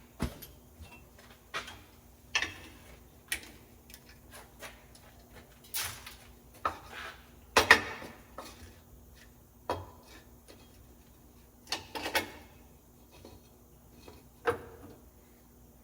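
Irregular knocks and clatters, about a dozen, of steel workpieces and tools being handled and set down on a shop bench, over a faint steady hum.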